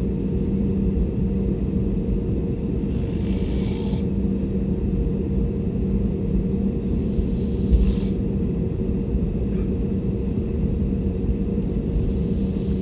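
Airbus A320neo cabin noise: a steady rumble of the engines and airflow, with a constant low hum.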